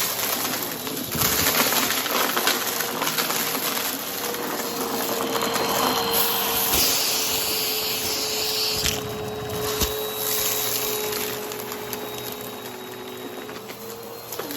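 Brushroll vacuum cleaner running, its motor giving a steady whine under a dense rushing noise, with a few sharp clicks.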